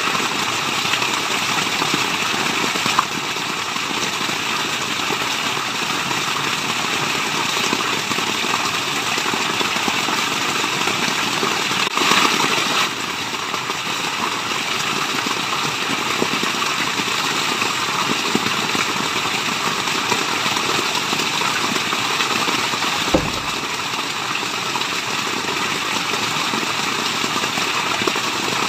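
Waterfall water rushing in a steady, even wash of noise, with a brief louder surge about twelve seconds in and a couple of short clicks.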